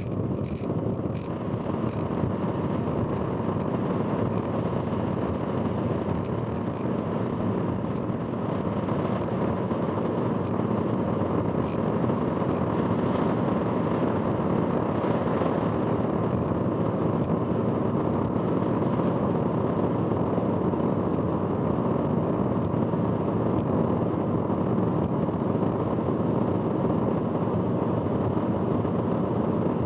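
Steady road and wind noise from a car driving at expressway speed, picked up by an in-car camera, with a few sharp ticks in the first couple of seconds.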